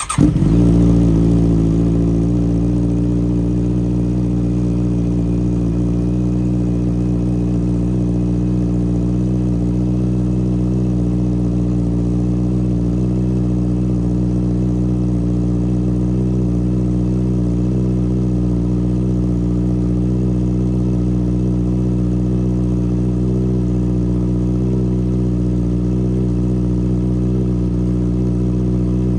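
2021 Honda CB650R inline-four on a cold start, breathing through a CS Racing full-system exhaust with no dB killer: it catches right at the start, flares briefly, then settles over a couple of seconds into a steady, loud idle.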